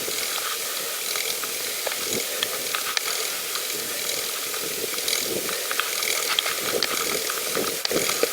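Bicycle drivetrain ticking and clicking steadily as the bike is ridden.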